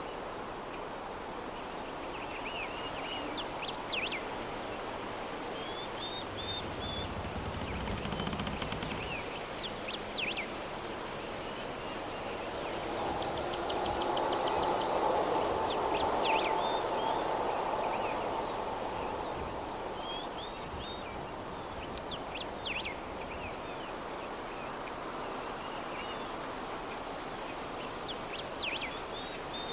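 Soft, steady breeze with small birds chirping in short bursts throughout. A louder swell of wind rises and falls in the middle, carrying a faint held tone.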